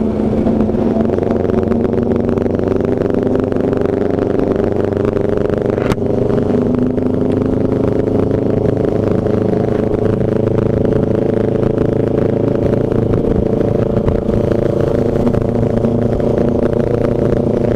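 Underbone motorcycle engine running at a steady cruising speed, with a steady engine hum under wind and road noise. A brief click comes about six seconds in.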